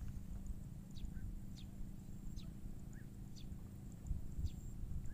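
A small bird giving short, high chirps that fall in pitch, about five of them roughly a second apart, over a steady low rumble.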